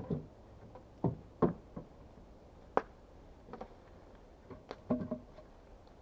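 Irregular sharp wooden knocks and clacks, about eight in six seconds, as sticks of firewood are handled and knocked together.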